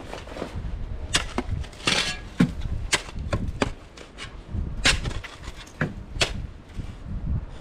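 A tool chopping into an icy snow cornice: repeated sharp strikes at an uneven pace, over a low rumble.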